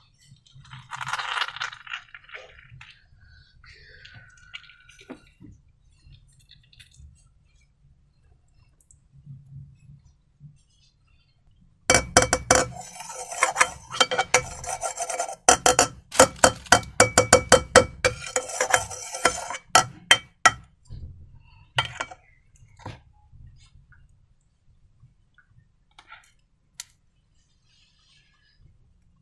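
Rapid clinking and tapping of hard objects against a dish, with a ringing tone after each hit. The clinks come in a dense run lasting several seconds near the middle, with a few scattered taps before and after.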